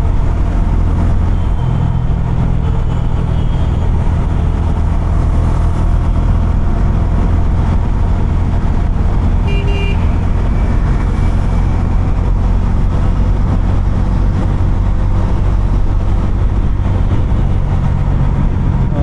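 Bajaj Dominar 250's single-cylinder engine running steadily while the motorcycle cruises through traffic. A short vehicle-horn beep comes about halfway through.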